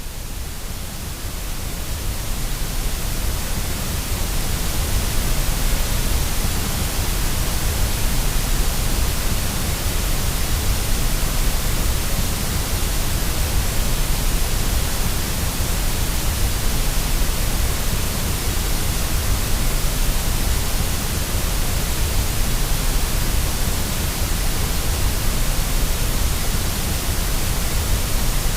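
Steady white noise for baby sleep: an even hiss with a deep rumble beneath it, fading in over the first few seconds and then holding level.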